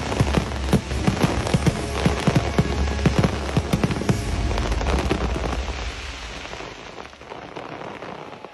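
Fireworks display going off: a dense, rapid run of bangs and crackling that thins out and fades over the last few seconds.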